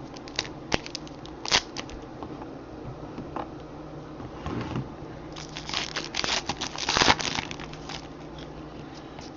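Trading cards and card-pack wrappers being handled: scattered sharp clicks and flicks, then a burst of crinkling and rustling about five and a half seconds in, loudest near the seventh second.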